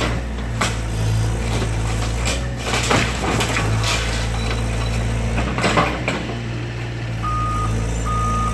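Excavator's diesel engine running steadily while the garage is torn down, with repeated cracks, crunches and knocks of breaking wood and debris. Near the end a backup alarm beeps twice, evenly spaced.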